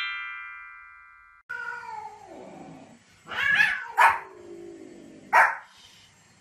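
A descending run of chime-like notes rings out and fades over the first second and a half. Then a dog whines with falling pitch, gives a longer rising-and-falling bark, and barks sharply twice more.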